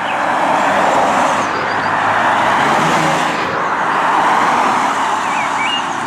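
Car sound: a steady rushing road noise that swells, eases briefly and swells again, without a clear engine note.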